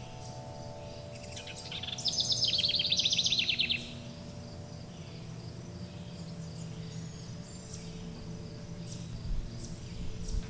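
Forest birds chirping, with one loud, rapidly repeated trilling song from about two seconds in that stops shortly before four seconds. Beneath them, wind chimes ring as long, slowly fading tones.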